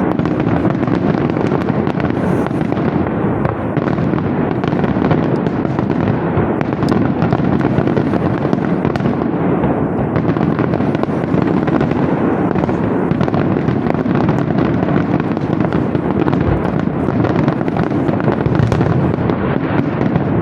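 Aerial fireworks display: a dense, continuous barrage of bangs and crackle with no pause, holding an even loudness throughout.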